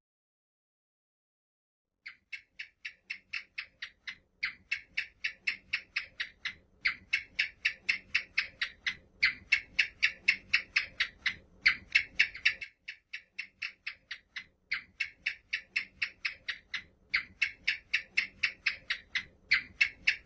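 An animal call: rapid, evenly spaced chirps, about five or six a second, in runs of a couple of seconds with short breaks between them, starting about two seconds in.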